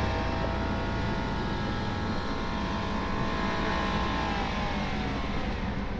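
Vehicle engine running steadily under load during a snow recovery pull, its revs easing down about four to five seconds in.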